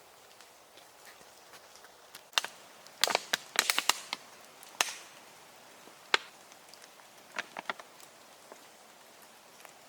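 Irregular sharp knocks and cracks, with a quick cluster of them about three seconds in and a few more spaced singly after, over a faint steady hiss.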